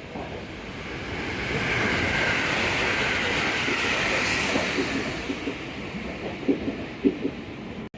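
A train passing at speed: a rushing noise of wheels and air swells and then fades, with a few sharp knocks near the end.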